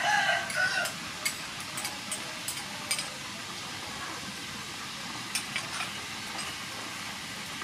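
Steady sizzling hiss of food frying in a pan, with scattered light clicks and taps from utensils.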